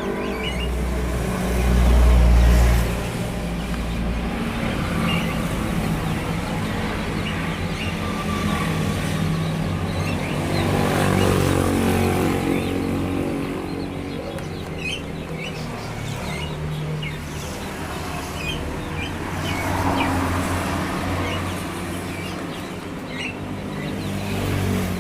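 Motor vehicle engines running and passing, swelling and fading several times, loudest about two seconds in, with small birds chirping over them.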